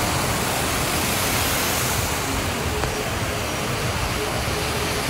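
Heavy rain and floodwater running down a flooded street: a steady, even rushing noise.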